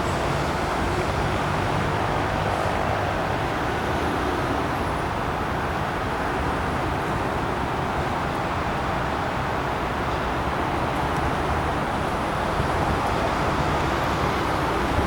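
Double-deck passenger train rolling past at speed: a steady rumble of wheels on the rails that holds at an even level throughout.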